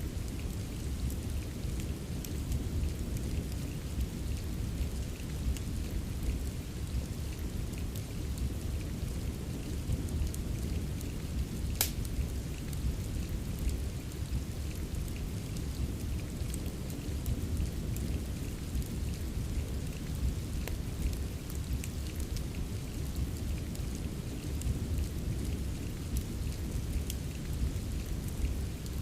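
Steady rain with a deep low rumble, mixed with a fireplace's scattered crackles and small pops. One sharp, louder pop comes about 12 seconds in.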